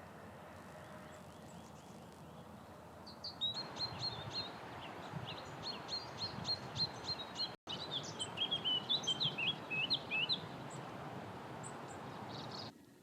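A songbird singing: quick runs of short, high, sharp notes repeated for several seconds, starting a few seconds in, over a steady background hiss.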